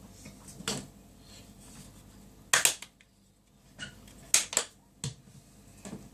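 Several sharp clicks and knocks of kitchen things being handled on a worktop, a double knock about two and a half seconds in and two quick ones about four and a half seconds in.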